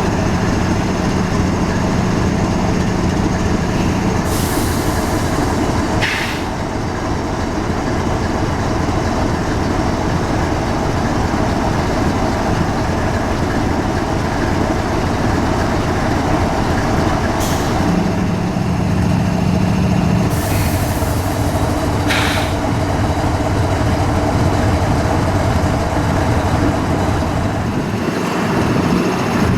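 Diesel locomotives of a stopped freight train running steadily, with two short bursts of air hissing, as the train gets ready to move again after an emergency brake application.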